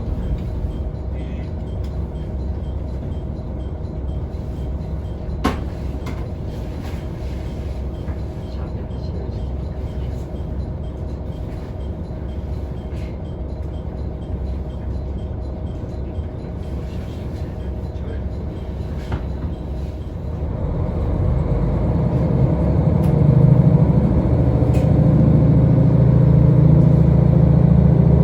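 Diesel railcar on the move: a steady rumble of engine and running gear, with one sharp click about five seconds in. About two-thirds of the way through, the engine note rises and grows louder as the diesel powers up.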